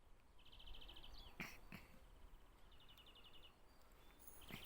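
A faint, fast bird trill, repeated three times, with two soft clicks in between.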